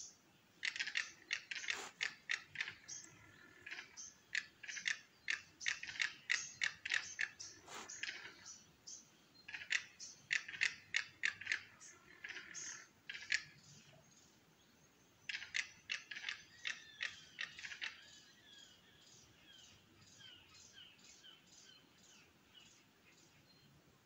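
A bird giving fast runs of sharp, clicking chip notes, about five a second, in three loud bursts, then fainter notes trailing off near the end.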